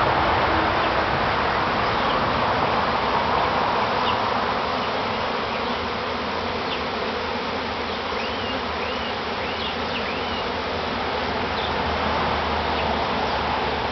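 Dense, steady buzzing of a large honey bee swarm flying in to settle into its new hive boxes, with bees all around the microphone.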